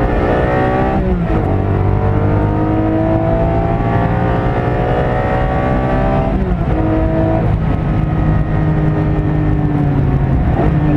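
Porsche 718 Cayman GT4's flat-six engine heard from inside the cabin under hard acceleration on track. Its pitch climbs through the revs with a sharp drop at an upshift about a second in and another about six and a half seconds in, then sags slightly as the car eases off near the end.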